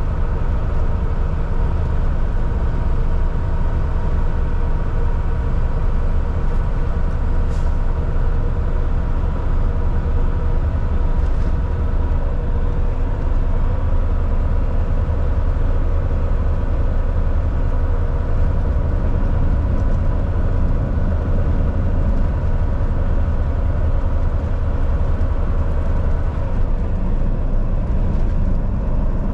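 Volvo VNL 760 semi truck cruising at steady highway speed: a constant diesel engine drone with tyre and road noise.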